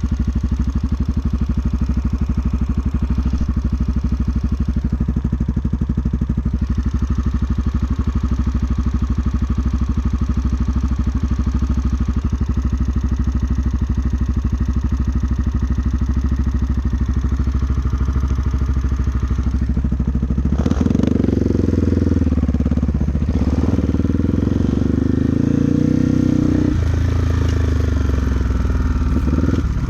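Trail motorcycle engine running steadily under way. About 21 seconds in it gets louder and its revs rise and fall unevenly as it works harder over the rough trail.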